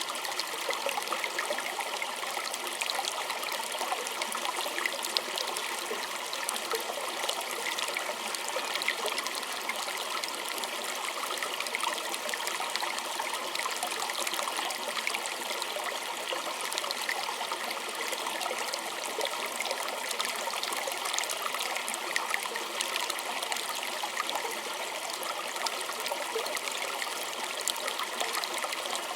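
A small stream trickling and splashing steadily, with lots of small droplet splashes and no change.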